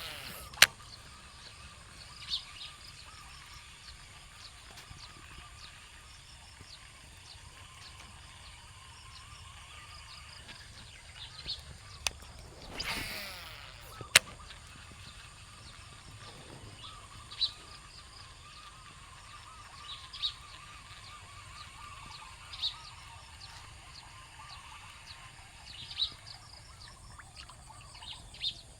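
Quiet outdoor ambience with a bird giving short chirps every few seconds, a few sharp clicks, and a brief rustling swish about halfway through.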